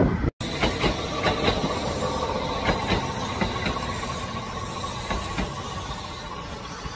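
Train running on rails: a steady rumble with scattered clicks from the wheels and track and a faint steady whine, growing gradually quieter. The sound cuts out for an instant just after the start.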